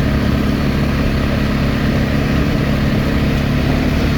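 Quad bike engine running at a steady pitch while riding, with a haze of wind and tyre noise over it.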